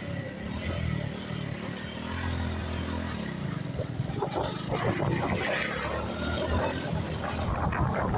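Motorcycle engine running on the move, its pitch rising and falling with the throttle; from about halfway, wind buffeting and crackling on the microphone take over.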